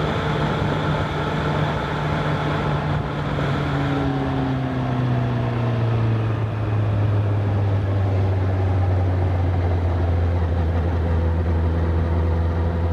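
Honda CBR1000RR SP inline-four engine running as the bike slows: the engine note falls in pitch over the first half, then holds steady at a lower speed. There is a rush of wind and road noise on the microphone throughout.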